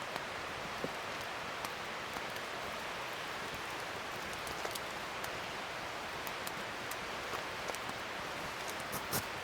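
Wood fire burning: a steady hiss with scattered small crackles and pops, and a couple of louder pops near the end.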